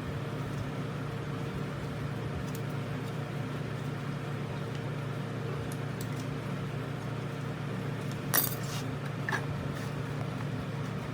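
A steady low hum runs throughout, with a sharp light metallic clink about eight seconds in and a smaller one a second later.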